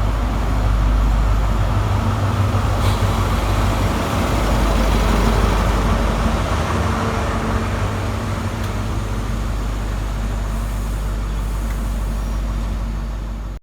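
Class 43 HST diesel power cars running through the station: a steady low engine drone under the rumble of the train, easing off a little in the last few seconds.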